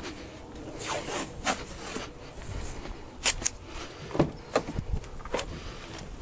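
Handling noise while a windshield is set in place: a scatter of sharp clicks and knocks, about half a dozen, with light rubbing between them.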